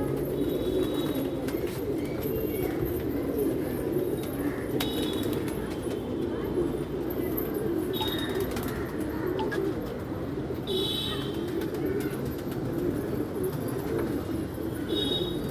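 Domestic pigeons cooing steadily, several calls overlapping in a continuous low murmur. A few short high chirps from another small bird come now and then.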